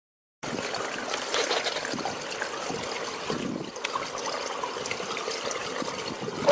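Swimming pool water lapping and trickling, starting about half a second in after a moment of silence.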